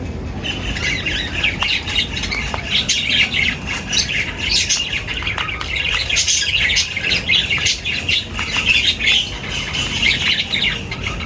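A flock of birds chirping and squawking at once, a dense chatter of short overlapping calls that never lets up, with many small sharp clicks mixed in.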